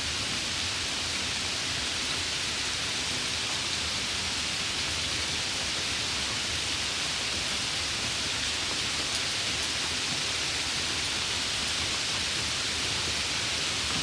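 Steady, even rain, a continuous hiss of many drops with no distinct drips or thunder.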